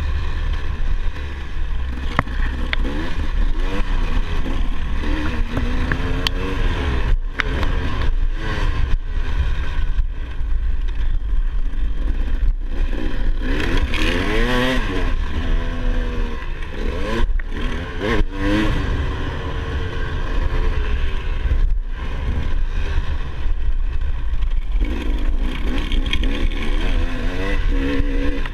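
Motocross dirt bike engine revving up and falling back again and again as the throttle is worked and gears change, over a constant low rumble.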